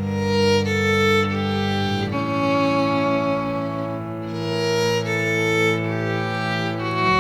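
Background music: a violin playing slow sustained notes over a held low string bass.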